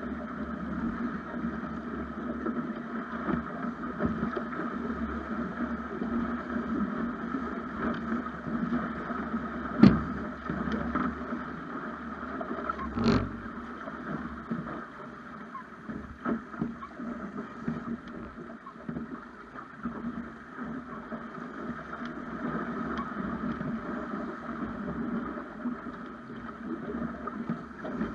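Water rushing and slapping along the hull of a Snipe sailing dinghy under way. A sharp knock comes about ten seconds in, and another about three seconds later.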